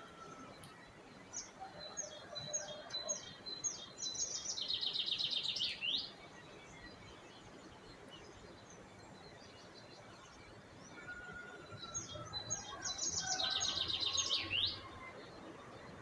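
A songbird singing two phrases about ten seconds apart. Each phrase is a run of short notes that speeds into a fast trill and ends in a quick flourish. Fainter lower bird notes come through in between.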